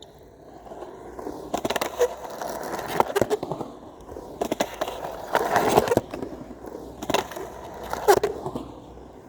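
Skateboard rolling, its wheels giving a steady rumble, broken by clusters of sharp clacks from the board and trucks about two, three, five to six, seven and eight seconds in.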